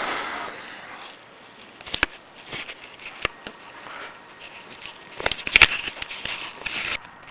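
Handling noise from a person moving about and fumbling with things: a short rustle at the start, then scattered sharp clicks and knocks, with a cluster of them about five to six seconds in.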